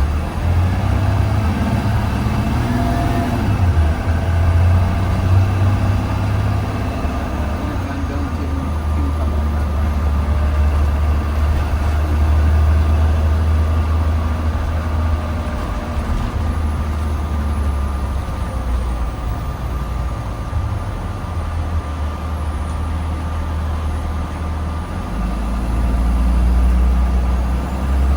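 2020 Blue Bird Vision school bus running under way, heard from inside the bus: a steady low engine drone that shifts in pitch several times, with a thin steady whine above it.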